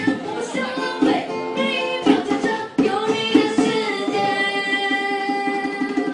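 Voices singing together, children's voices among them, with a long held note in the second half.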